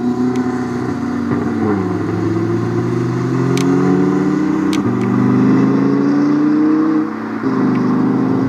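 Supercar engine accelerating: its note dips about two seconds in, then climbs and drops back at upshifts about five and seven and a half seconds in.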